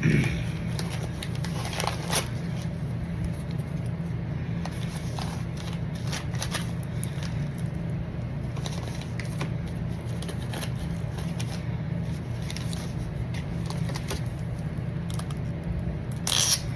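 Rustling and light clicks of trading-card packaging and plastic card holders being handled, with a louder crinkle near the end, over a steady low hum.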